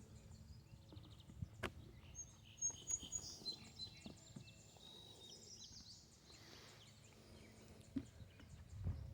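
Faint outdoor background with a few short, thin, high-pitched bird calls about two to five seconds in, and a few soft knocks.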